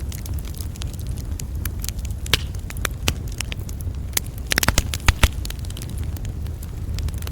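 Wood campfire crackling, with scattered sharp pops and a quick run of them a little past halfway, over a steady low rumble.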